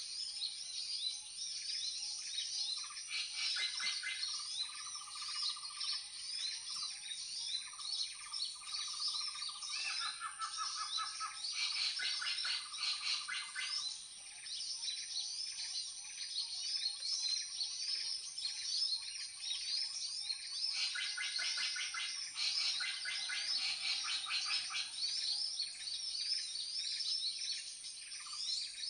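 Many small birds chirping and trilling in a dense, rapid chorus, over a steady high-pitched tone.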